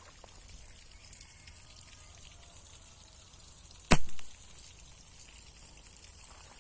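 A slingshot fired once: a single sharp snap about four seconds in, over faint outdoor background.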